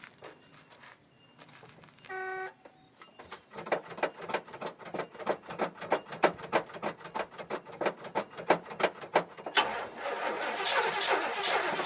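1975 Oldsmobile 455 Rocket V8 cold-started after long storage. A brief buzzer tone sounds, then the starter cranks in an even rhythm of about six beats a second for around six seconds. Near the end the engine catches and runs, louder and uneven.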